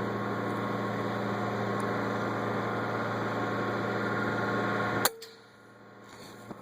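Steady low machine hum, like an idling engine, cut off by a single sharp crack about five seconds in, after which it falls much quieter.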